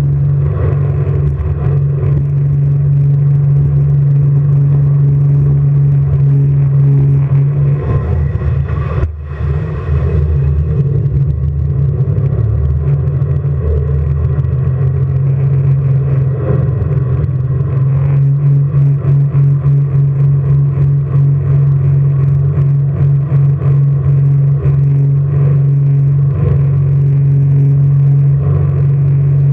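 Jet boat engine running hard as a loud, steady low drone. About eight seconds in it turns uneven and dips briefly, then settles back into a steady drone partway through.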